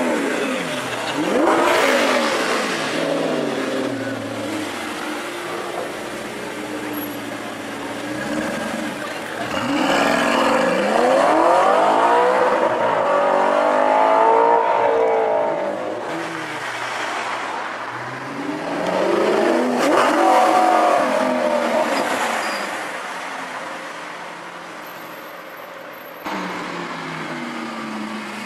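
Supercar with an Akrapovic exhaust accelerating and revving, its engine note climbing and dropping in pitch several times, loudest about ten to sixteen seconds in.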